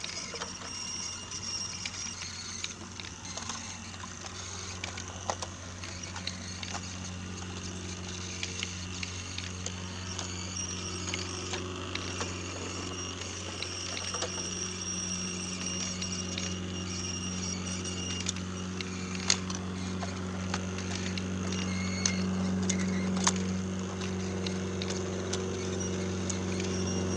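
Brio toy train running on wooden track: a steady motor hum with scattered sharp clicks, slowly growing louder toward the end.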